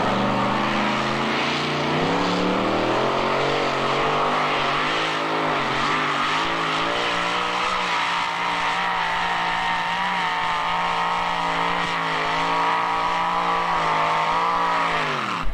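Pulling vehicle's engine at full throttle during a pull. Its pitch climbs over the first two or three seconds, holds high and fairly steady, then drops sharply near the end as the throttle comes off.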